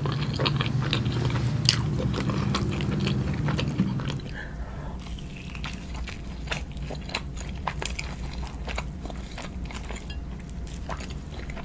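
Close-miked eating: biting and chewing food with crunches and moist mouth clicks. It is louder for about the first four seconds, then settles into quieter chewing.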